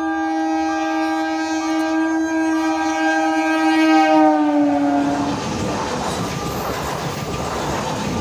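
Electric multiple-unit local train sounding one long, steady horn blast as it approaches. The pitch drops as the cab passes about five seconds in and the horn stops. Then the coaches go by with the noise of wheels running on the rails.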